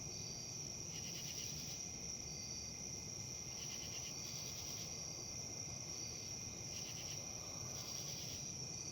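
A steady, high-pitched insect chorus trilling without a break, with short pulsed chirps every second or two, over a faint low rustle of wind.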